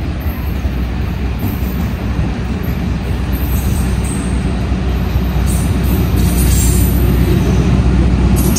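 Diesel locomotive of an approaching passenger train running toward the platform at speed, a steady low engine rumble growing gradually louder as it nears. Short high-pitched sounds come in from about three seconds in.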